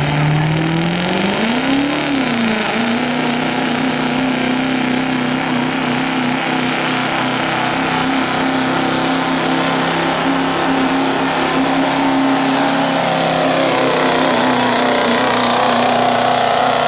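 Diesel pickup truck engine at full throttle pulling the sled. Its revs climb for about two seconds, then hold steady for most of the pull and sag slightly near the end.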